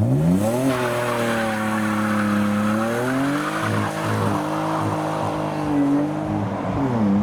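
A modified car's engine revving hard as it pulls away: the revs climb sharply in the first second, are held high for several seconds, then drop and rise again near the end.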